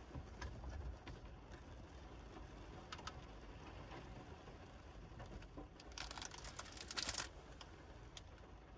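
Rain tapping on the car's roof, heard from inside the cabin as scattered sharp drops over a low rumble. About six seconds in, a denser burst of noise lasts just over a second.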